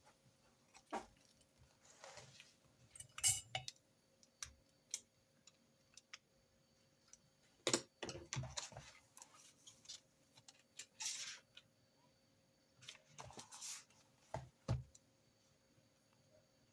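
Small objects being handled on a desk during note-taking: scattered clicks and taps, a cluster of knocks about eight seconds in, and a few short rustles or scrapes.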